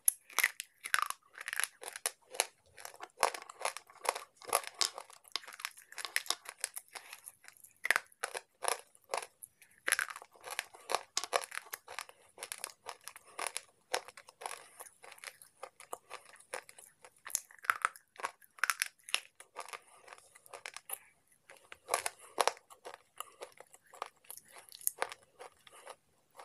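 Slate pencils being bitten and chewed: a dense run of sharp, dry crunches and crackles with brief pauses between bites.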